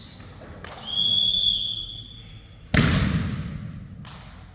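Referee's whistle blown once, a steady high note held for about a second and a half, then a loud smack of a volleyball being struck, echoing in the sports hall.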